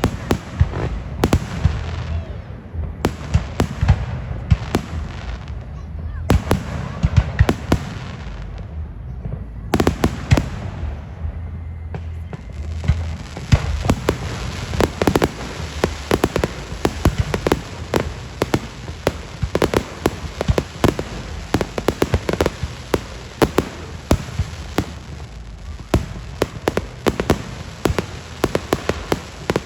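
Fireworks going off: a string of sharp bangs that thickens into dense, near-continuous crackling from a little before halfway through.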